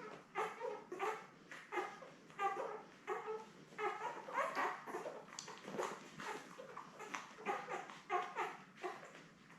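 Ten-day-old Labrador retriever puppies whining and squealing in many short cries, several a second, as they jostle for teats to nurse.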